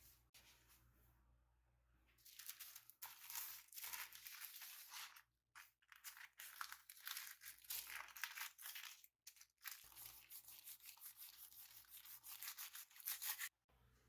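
Close-up crinkling and tearing sounds of food preparation, in three stretches with brief pauses between them.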